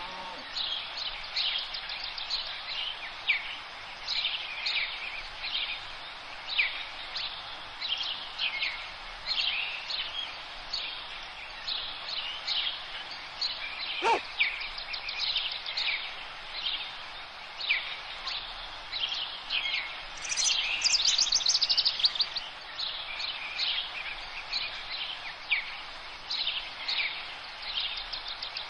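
Several small birds chirping and singing in trees, short repeated notes throughout, with a louder rapid trill that falls in pitch about twenty seconds in. A single sharp click about halfway through.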